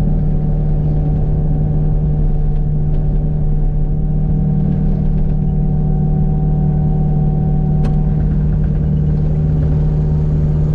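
Kubota U55 mini excavator's diesel engine running steadily at a constant speed, with no hammer blows.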